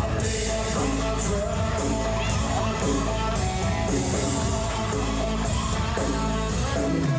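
Live country-rock band playing with electric guitar, bass and drums, with cymbal hits marking a steady beat of about two a second.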